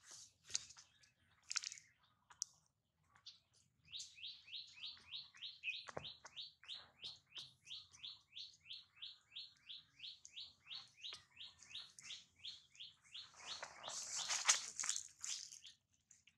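A bird calling the same short chirp over and over, about three times a second for some ten seconds. A louder scratchy noise comes near the end.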